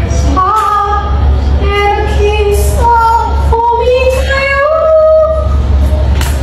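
Black-capped lory singing in a human-like voice: a string of long, high, wavering notes that slide and step in pitch like a melody, over a steady low hum.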